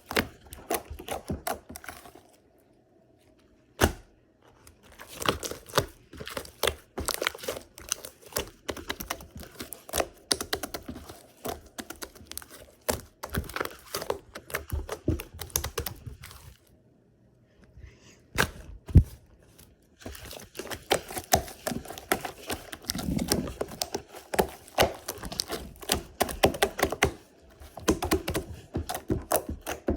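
Opaque slime being squeezed and worked by hand, giving a rapid run of sticky clicks and pops. It pauses briefly twice, about two seconds in and again around the middle, and there is one sharper snap just after.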